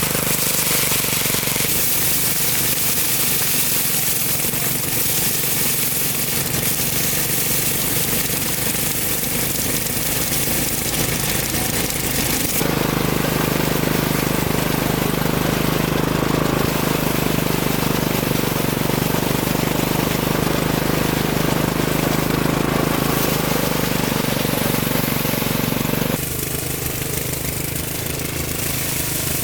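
A small engine running steadily, its sound shifting abruptly about 2 seconds in, again near the middle and once more near the end.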